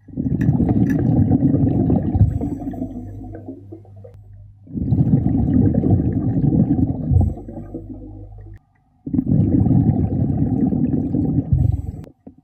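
A scuba diver's exhaled bubbles rumbling out of the regulator underwater, three long breaths about four seconds apart with short quiet gaps between them.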